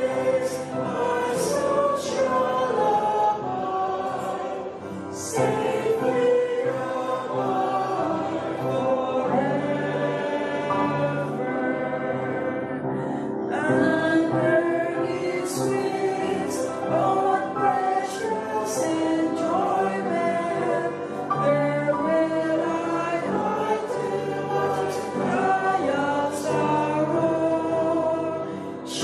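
A choir singing a hymn, several voices together, continuously.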